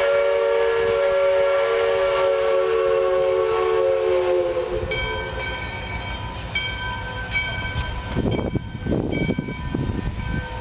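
A locomotive's chime whistle blows one long steady blast of several notes at once, sagging slightly in pitch as it shuts off about four and a half seconds in. The low rumble of the approaching train follows, with short ringing tones now and then and a few louder noisy bursts.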